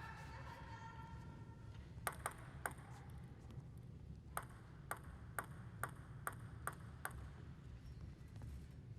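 Celluloid-type table tennis ball clicking against bat and table: three quick clicks about two seconds in, then a run of about seven evenly spaced sharp clicks, a little over two a second, over a low hall hum.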